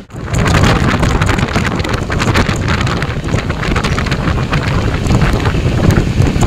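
Express passenger train running at speed, with wind buffeting the microphone over the steady rumble and clatter of the coach.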